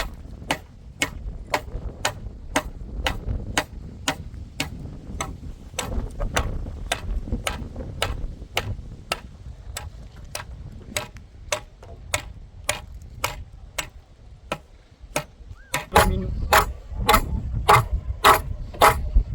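A steady series of sharp knocks, about two or three a second, growing louder and quicker near the end.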